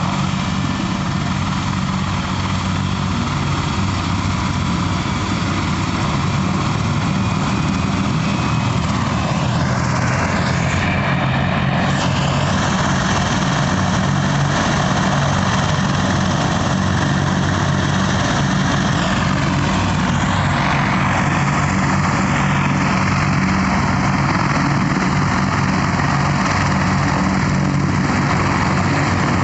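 An aircraft engine running steadily and loudly, with pitch sweeps about ten and about twenty seconds in.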